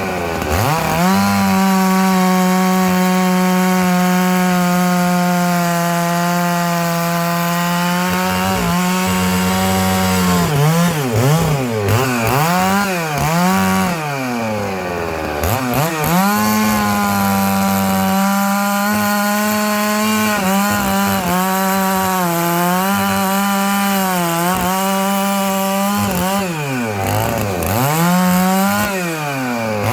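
Stihl MS 660 two-stroke chainsaw ripping dried larch logs lengthwise, held at a steady high engine speed through long cuts. The engine speed drops and climbs again several times around the middle and near the end.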